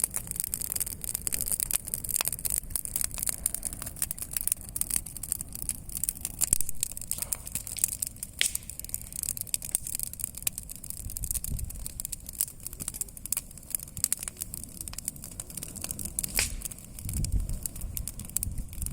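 Wood campfire crackling, with many irregular sharp pops over a steady hiss. A low rumble comes in near the end.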